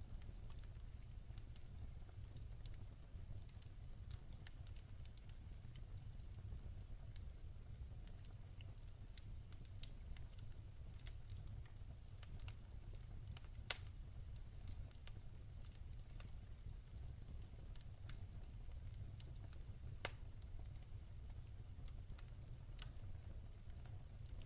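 Wood campfire crackling: scattered small snaps and pops over a steady low rumble, with two louder pops, one a little past halfway and one later on.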